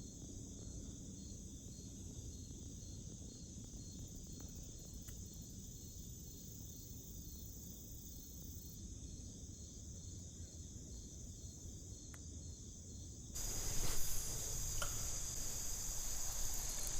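Insects chirping steadily in a high, evenly pulsing trill outdoors. About thirteen seconds in, a louder steady rushing noise comes in on top.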